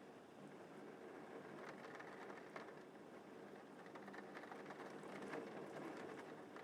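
Gentle rain falling steadily: a faint hiss with a patter of many small drops.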